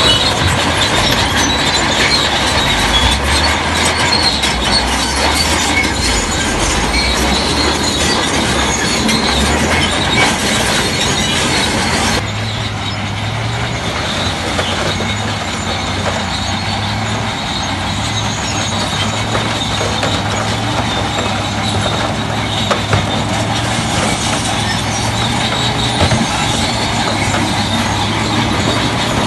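Crawler bulldozer at work: its diesel engine running steadily under steel tracks that squeal and clank. The sound changes abruptly about twelve seconds in, becoming a little quieter with a steadier low engine hum.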